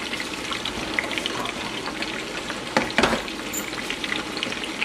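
Food frying in oil in a pot on the stove: a steady sizzling hiss with small scattered crackles. A single sharp knock about three seconds in.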